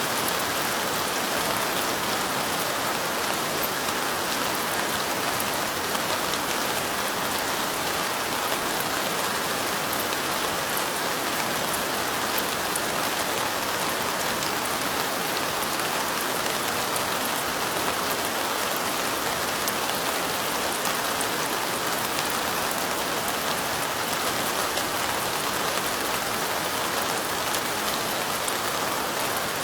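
Steady light rain with a dense sprinkle of fine drop ticks, the even hiss holding unchanged throughout.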